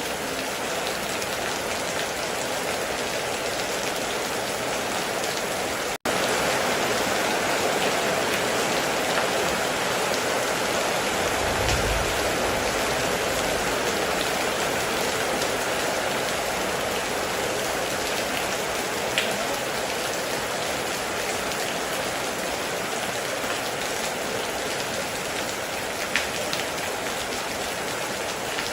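Heavy rain falling steadily and densely, with a brief low rumble about twelve seconds in and a couple of sharp drip-like ticks later on. The sound cuts out for an instant about six seconds in and comes back slightly louder.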